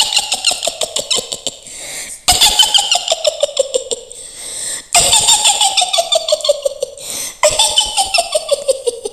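Mak Lampir's high-pitched witch cackle: four runs of fast "hihihi" laughter, each sliding down in pitch.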